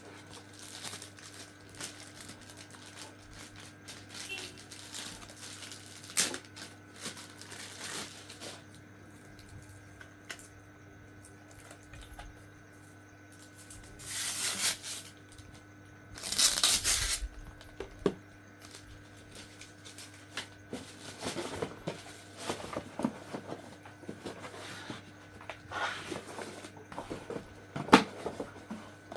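Unboxing sounds: packaging being torn and crinkled, with scattered clicks and knocks of parts being handled. There are two longer tearing or rustling bursts about halfway through.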